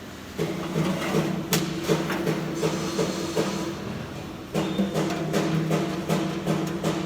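Flux-cored arc welding on stainless steel: a steady arc buzz with irregular crackling and spatter pops. The arc breaks off briefly about four seconds in, then strikes again.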